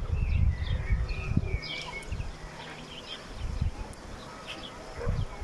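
Several small birds chirping and calling in quick, short notes, over a low uneven rumble.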